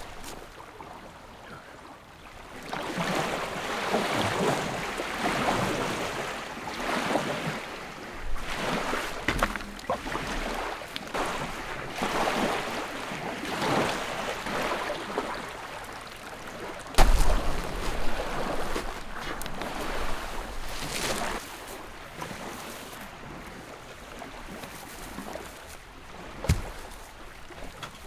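Choppy, wind-driven river water splashing in repeated surges about every second or so, with wind noise. A sharp knock about two-thirds of the way through, the loudest sound, and a second one near the end.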